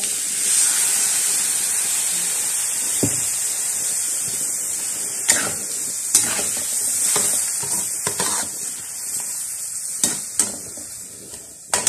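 Meat sizzling in an aluminium wok just after a little water is added, with a metal spatula scraping and knocking against the wok as it is stirred. The sizzle swells about half a second in and then slowly dies down.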